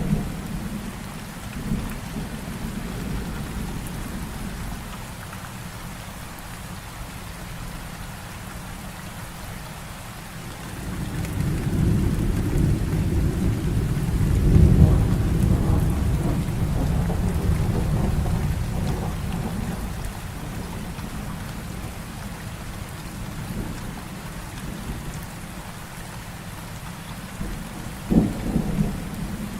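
Heavy rain falling steadily through a thunderstorm. A long, deep thunder rumble swells about a third of the way in, peaks near the middle and slowly fades. There are short, sharp cracks right at the start and again near the end.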